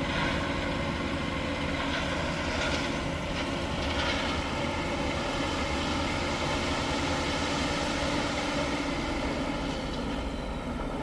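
Dump truck's engine running steadily, a continuous drone, as the truck dumps a load of gravel.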